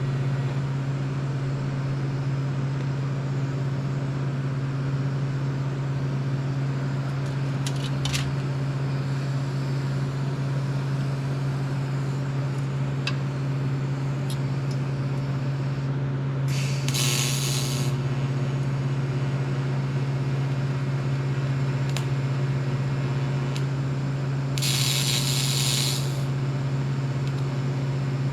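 Steady low machine hum with a few faint clicks, and two short hisses of about a second each, one a little past the middle and one near the end.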